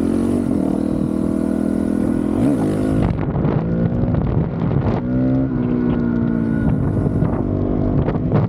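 Honda CRF450RL's single-cylinder four-stroke engine through a full titanium Yoshimura RS-4 exhaust, running under way with the pitch rising and falling as the throttle is worked, with a quick climb in revs about five seconds in.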